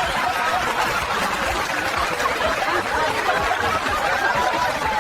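Several people chuckling and snickering together over a steady murmur of voices.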